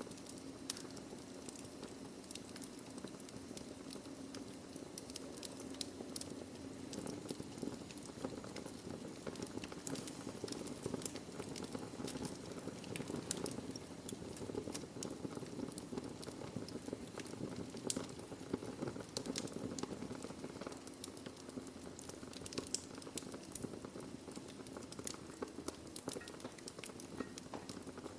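Wood fire burning in a fireplace: a steady low rush of flame under many small, quick crackles and pops of burning logs, a few louder snaps among them.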